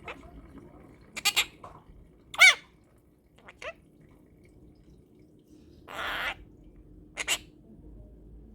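Monk parakeet (Quaker parrot) giving about six short, separate calls and chirps. The loudest is a bending, pitched call about two and a half seconds in, and a longer harsh, rasping squawk comes about six seconds in.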